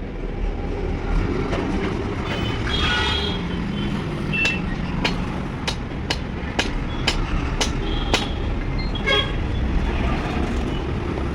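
An engine running steadily with a low rumble. Over it comes a run of sharp metallic clicks, about two a second, in the middle of the stretch, along with a few short high squeaks.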